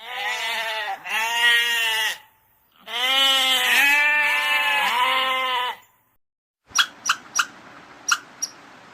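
A goat bleating in two runs of wavering calls with a short break between them. Near the end come a few short, sharp chirps.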